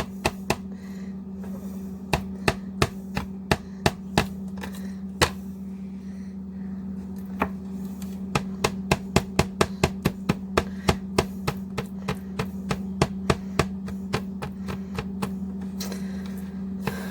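A fork stabbing into partly frozen chicken legs on a cutting board: sharp clicks and taps as the tines hit the board, in uneven runs of several a second. A steady low hum runs underneath.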